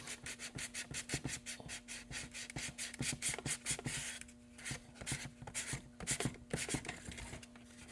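320-grit sandpaper rubbed by hand over body filler on a hard plastic RC truck body: quick back-and-forth scratchy strokes, several a second, with a short pause about halfway through. A faint steady hum sits underneath.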